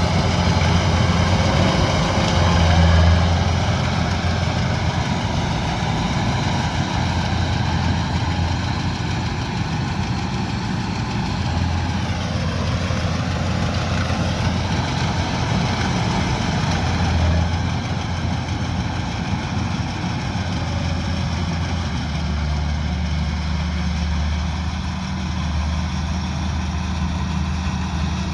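Diesel engine of a Kubota DC-105X combine harvester running steadily, with a brief dip and recovery in pitch about halfway through.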